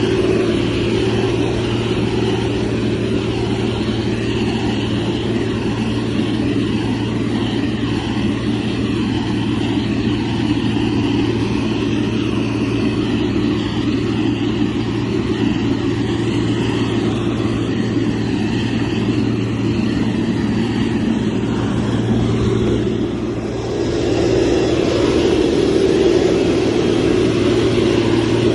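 Motor grader's diesel engine running steadily. It eases off briefly about two-thirds of the way through, then picks up again slightly louder.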